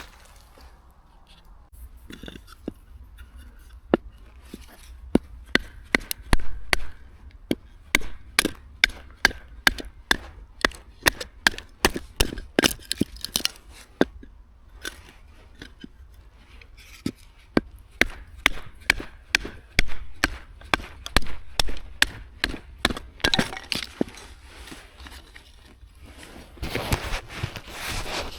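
A run of sharp knocks or snaps, about two to three a second with short pauses, then a brief rustling noise near the end.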